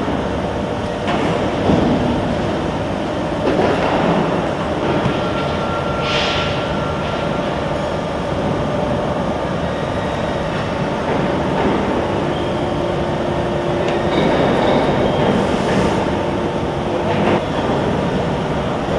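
Automatic sheet-metal duct production line running: a steady mechanical rumble and clatter with humming motor tones that come and go, and a brief hiss about six seconds in.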